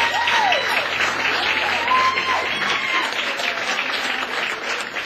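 Audience applauding at the end of a song, with scattered cheers and whoops over the clapping.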